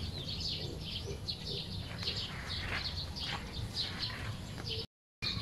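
Birds chirping in the trees: many short, high chirps repeating over a low steady background hum.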